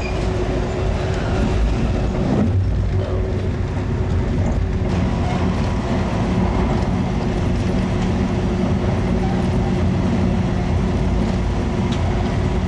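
Moving Amtrak passenger train heard from inside the coach: a steady rumble of wheels on rail with a constant hum running under it.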